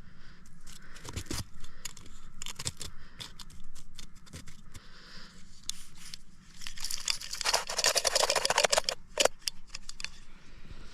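Camping gear being handled: scattered clicks and crinkling, with a dense rapid rasping run lasting about two seconds, starting around seven seconds in.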